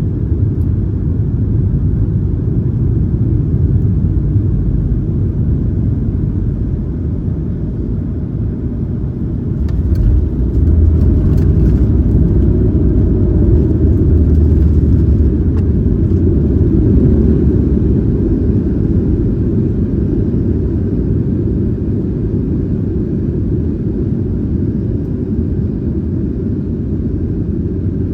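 Cabin rumble of a Boeing 737-900ER with CFM56-7B engines, heard from a rear economy seat: a steady low roar of engines and airflow. About ten seconds in it swells and the cabin rattles for several seconds, then it slowly eases off.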